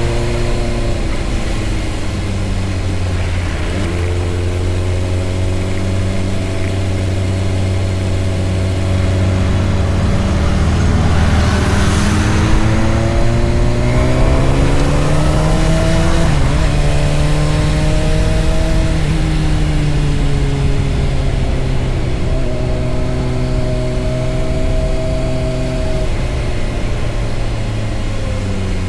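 Honda CBR600RR sport motorcycle's engine running on the road, its note rising and falling several times with the throttle and gear changes. A brief rush of noise swells and fades about twelve seconds in.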